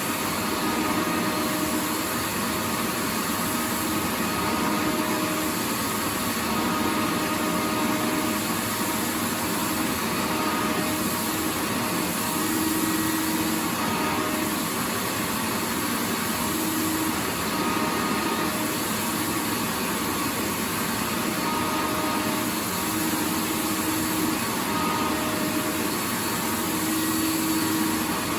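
Vacuum cleaner running continuously: a steady rushing noise with a faint hum that comes and goes.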